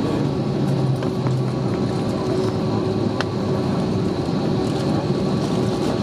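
Steady cabin noise inside an Airbus A320neo after landing: its Pratt & Whitney PW1127G geared turbofans running at low power, a constant hum with a steady whine over airflow noise. A few faint clicks and rattles are heard.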